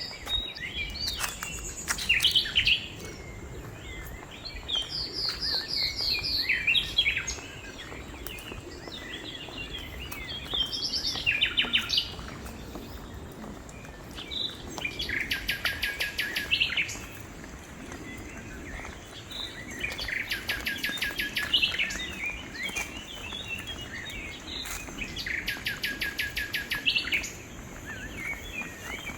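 Wild birds singing in tropical woodland: several fast, rapidly repeated trills, each one to two seconds long, recurring every few seconds. Under them runs a steady, high insect drone.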